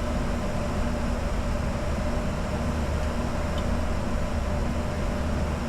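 Steady cockpit noise of a Bombardier Challenger 605 jet in descent: a constant rush of airflow and engine hum, with faint steady tones.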